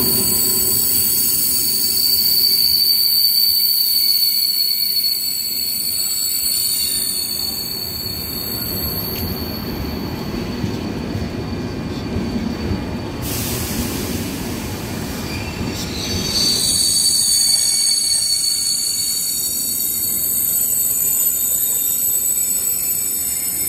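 KTX high-speed train rolling along the platform: a low rumble of the cars under high, steady wheel squeal, which drops away for a few seconds in the middle and then comes back.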